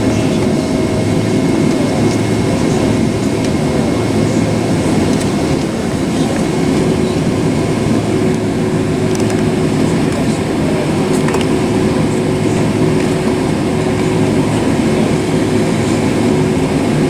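Steady cabin noise inside a Boeing 767-400 airliner: the jet engines' even drone with a low rumble and a faint steady hum underneath.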